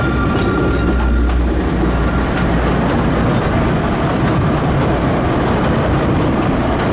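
Passenger train running along the track, heard from inside the carriage: a steady rumble of wheels on rails, with a faint high squeal that comes and goes.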